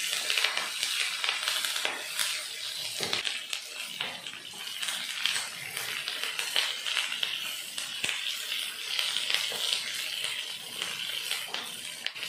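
Curry leaves, green chillies and lentils sizzling in hot oil in a frying pan as they are sautéed and stirred with a wooden spatula: a steady hiss with scattered crackles and pops.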